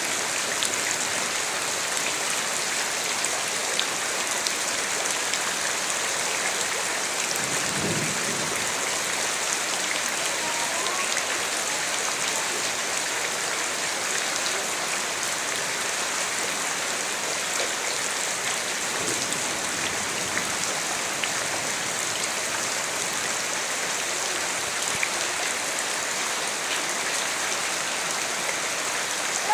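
Steady rain falling and pattering on surfaces, a dense even hiss of drops.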